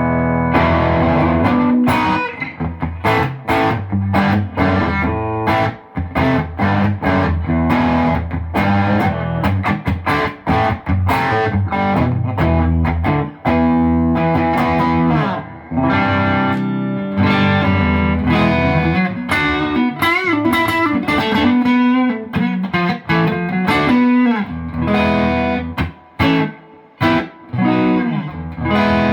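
Electric guitar, a Fender Stratocaster loaded with an ObsidianWire HSS pickguard, played through overdrive: a run of picked notes and chords, with a wavering bent note about twenty seconds in.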